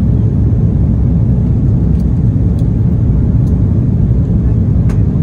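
Steady low rumble of an Airbus A330-300's cabin noise, the engines and airflow heard from inside the airliner, with a few faint clicks.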